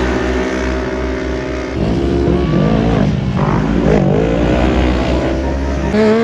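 Off-road racing engines: a steady engine drone at first, then from about two seconds in several engines revving up and down at once, their pitch rising and falling as they accelerate and back off.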